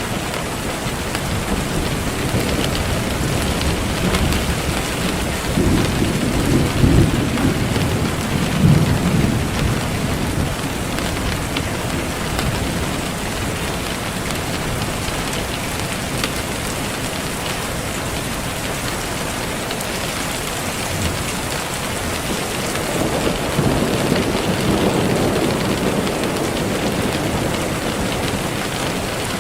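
Steady rain with low thunder rumbling twice, first about six seconds in and again in the last third.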